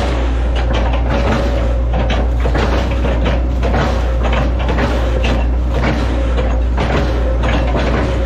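Hitachi ZaXis 110 hydraulic excavator's diesel engine running steadily under load, with frequent sharp knocks and clanks from the working arm and bucket.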